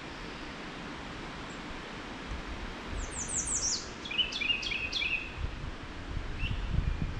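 American redstart singing: about three seconds in, a quick series of high, thin notes, then a run of sharply down-slurred notes, with one faint note near the end. A low rumble runs under the second half.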